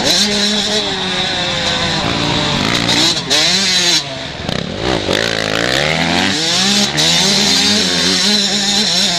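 Motocross bikes racing on the track, their engines revving up and dropping back again and again through gear changes, several engines overlapping.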